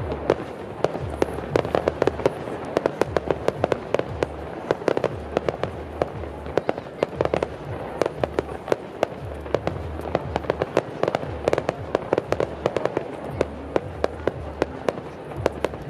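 Fireworks going off in quick succession: a dense, continuous run of sharp cracks and pops, several a second, over a low rumble.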